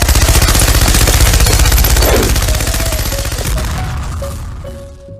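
A machine-gun-like sound effect: a rapid string of bangs that starts suddenly and fades out over about four seconds.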